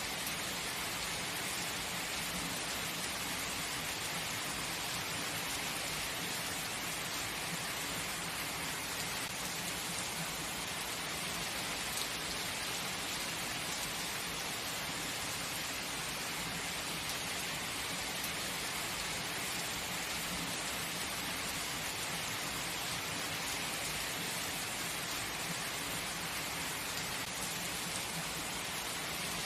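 Heavy rain falling steadily, an even hiss with no letting up.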